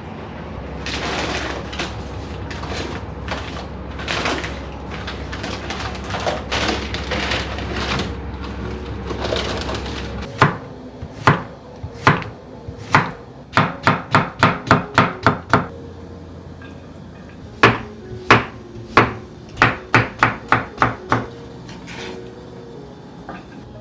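Knife chopping on a cutting board: sharp knocks in quick runs of about four a second, starting about ten seconds in. Before that there is irregular scraping and rustling of food handling over a low steady hum, and the hum stops as the chopping begins.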